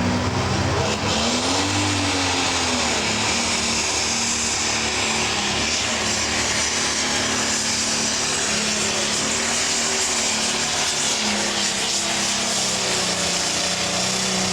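Pro stock pulling tractor's turbocharged diesel engine running flat out under load while dragging the weight sled. The engine note dips and recovers about two seconds in, and the sound drops away sharply at the very end.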